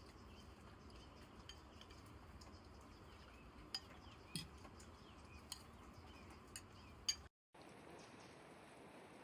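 A few faint, separate clicks and clinks over a quiet background, the loudest about seven seconds in; the sound cuts out completely for a moment just after it and comes back with a slightly different background.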